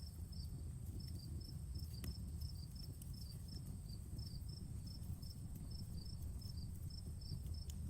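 Crickets chirping in a quick, even rhythm over a steady high insect drone, with a campfire's low rumble underneath and a few sharp crackles from the burning wood.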